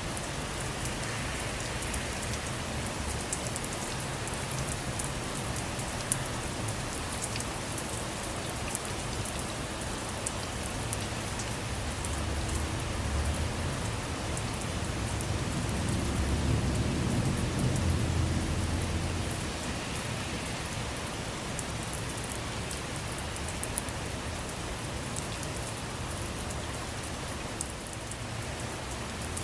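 Steady rain falling on a car, with fine scattered drop ticks. A low rumble of distant thunder builds through the middle and dies away again.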